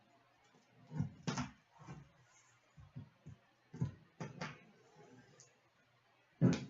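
Hockey card packs and cards being handled and opened on a table: a few scattered soft knocks and crinkles, the loudest near the end, over a faint steady hum.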